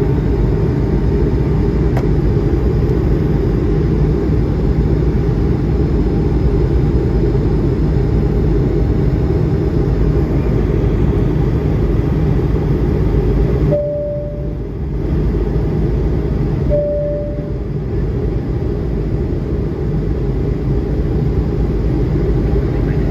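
Airbus A220-100 cabin noise: a loud, steady rumble of the Pratt & Whitney PW1500G jet engines and airflow. Two short single-pitch tones sound about three seconds apart past the middle.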